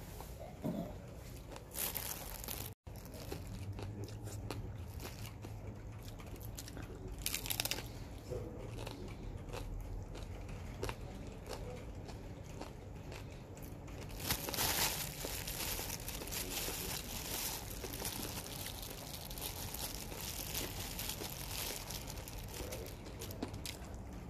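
Close-up biting and chewing of a crisp topped tortilla: scattered crunches and crackles, with a louder stretch of crunching about 14 seconds in.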